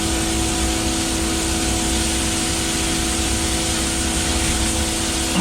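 Concrete boom pump truck running steadily during a pour, its diesel engine and pump giving an unbroken hum with a constant tone over an even hiss.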